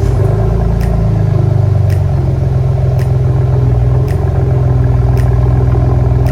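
2020 Ford Bronco's 2.7 L EcoBoost V6 running through a Flowmaster aftermarket exhaust, held at a steady engine speed with an even, loud exhaust note. It cuts in suddenly at the start.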